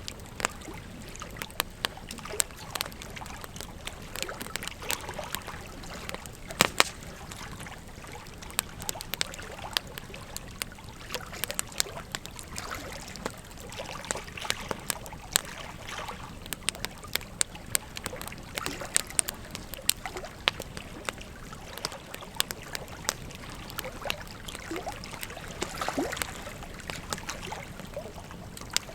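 Wood fire crackling, with irregular sharp pops and snaps, over the steady rush of flowing river water.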